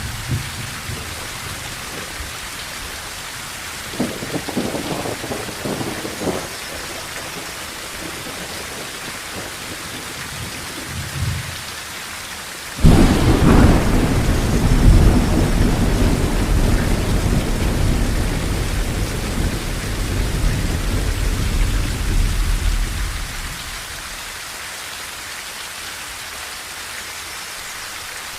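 Steady heavy rain falling on a tin roof, with thunder. Brief distant rumbles come about four to six seconds in; about thirteen seconds in a sudden loud thunderclap breaks into low rumbling that lasts about ten seconds and then fades, leaving the rain alone.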